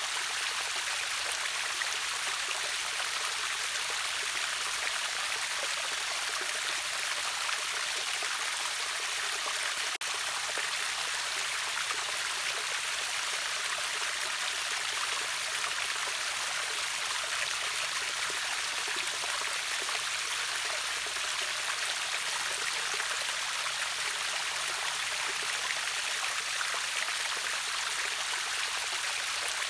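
Water of a small river waterfall or stream running steadily, a continuous hiss-like splashing with no breaks.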